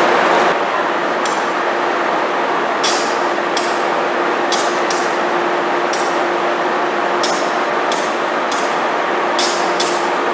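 Steady running noise of idling railway equipment with a constant hum, broken about a dozen times by short, sharp hisses of air.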